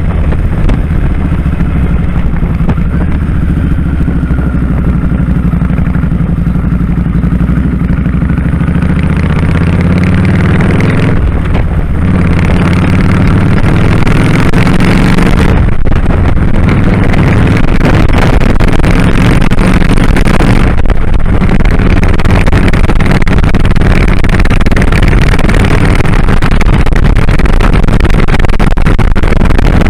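2001 Kawasaki Drifter 1500's V-twin engine running under way, heard with wind rushing past, loud throughout. The sound dips briefly three times, about 11, 16 and 21 seconds in, and the rush of noise grows over the second half.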